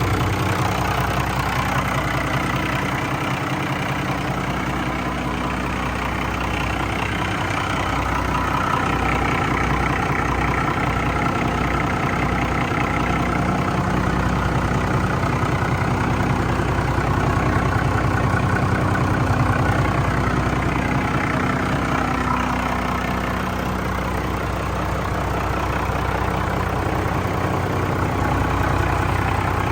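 Cummins 6CTA8.3M3 inline-six turbocharged marine diesel idling steadily on its first run after remanufacture.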